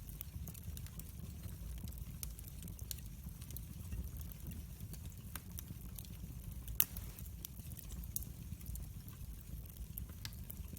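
Wood fire crackling, with scattered sharp pops over a low steady rumble; one louder pop comes about two-thirds of the way through.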